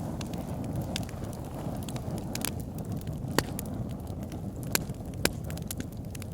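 Wood fire in a backyard fire pit burning with a steady low rumble, and irregular sharp crackles and pops from the burning wood, a few of them standing out loud.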